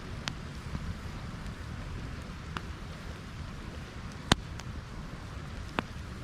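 Wood campfire burning with a steady low rush and a few sharp crackling pops, the loudest about four seconds in.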